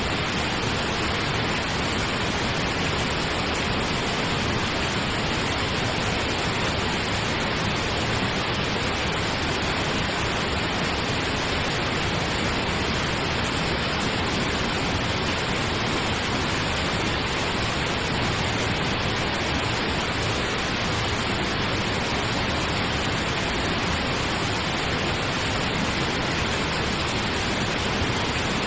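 Steady pink noise: an even, unchanging hiss with nothing else in it.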